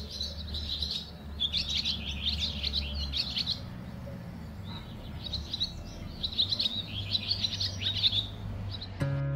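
Small birds chirping in quick, twittering bouts with short pauses between, over a steady low hum. Near the end, acoustic guitar music begins.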